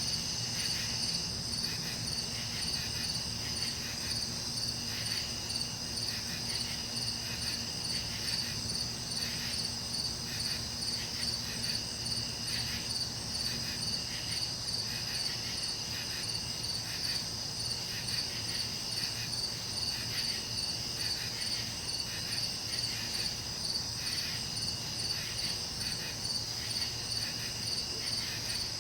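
Insects chirring in a steady, evenly pulsing chorus, in the manner of crickets, with a faint low hum underneath that drops out about halfway.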